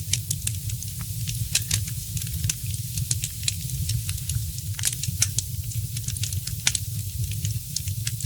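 Wood fire crackling in a fireplace, with frequent sharp pops and snaps, several a second, over a steady low rumble of the flames.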